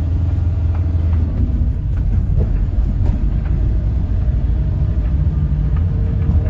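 Car driving, its engine and road rumble heard from inside the cabin, with a few light knocks and rattles.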